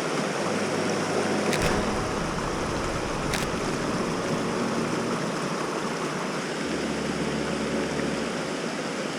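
Waterfall in full spate: a steady rush of fast, high-volume water.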